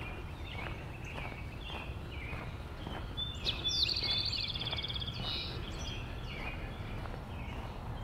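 Songbirds chirping, with one bird singing a loud, rapid trill from about three and a half seconds in. Footsteps at a walking pace and a low steady rumble run beneath.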